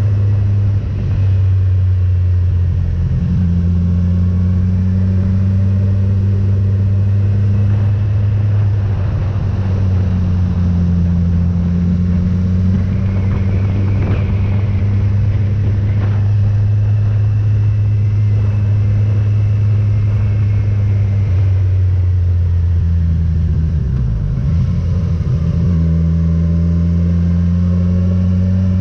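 Motorcycle engine running steadily under way at cruising revs, its note shifting briefly about a second in and again about two-thirds of the way through, as with changes of throttle or gear.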